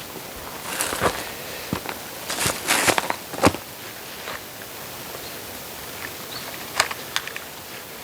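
Split oak firewood being handled: scattered knocks and clacks of logs with short rustling scrapes and footsteps, busiest in the first half.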